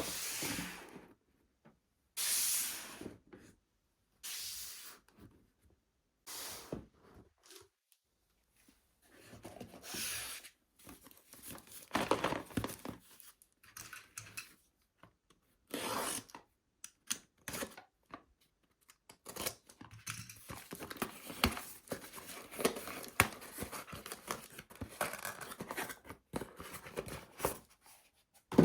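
Packaging being opened by hand: a series of separate tearing rips, each about a second long, followed by a longer stretch of rustling, crinkling and small clicks as the box and its contents are handled.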